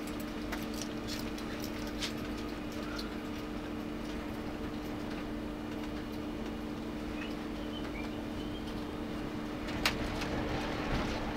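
Interior running noise of an electric passenger train in motion: a steady drone with a few held low tones over rumbling wheel noise, with scattered light clicks and rattles. A sharp click and a brief swell of noise come near the end.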